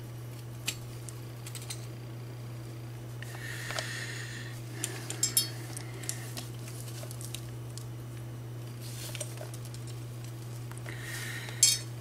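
Small die-cast metal toy parts and tools clinking and being handled, with a few sharp clicks, the loudest near the end, over a steady low hum.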